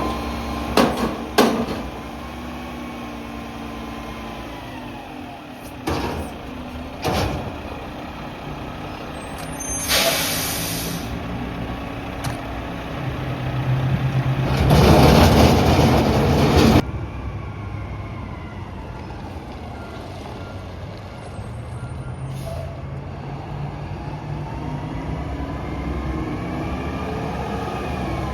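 Mack MRU front-loader garbage truck working, its engine running and changing pitch, with a few sharp knocks in the first several seconds and a short air-brake hiss about ten seconds in. The loudest part is a loud, noisy stretch of about two seconds past the middle that cuts off suddenly.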